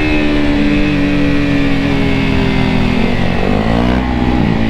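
KTM RC 200's single-cylinder four-stroke engine running under way, its revs sinking slowly, then dropping and picking up again near the end.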